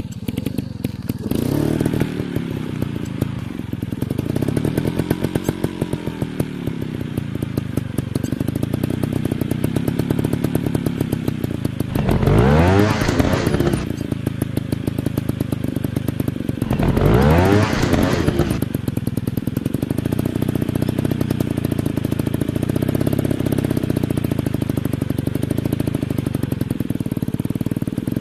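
Off-road dirt bike engines running, their pitch rising and falling as the throttle is worked. Twice, about twelve and seventeen seconds in, a bike revs hard and loud, its pitch sweeping steeply up and then down.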